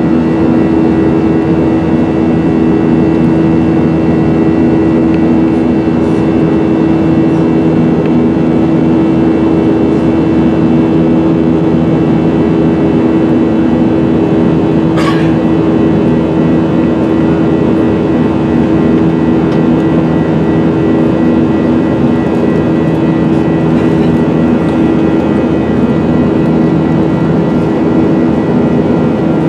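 Steady, loud vehicle drone heard from inside, a constant hum with a few fixed tones over a noise bed, broken once about halfway by a short click.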